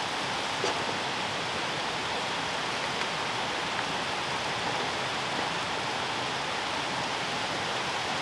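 Sausage and shredded sweet potato sizzling steadily in a skillet on a camp stove, with one light click about half a second in.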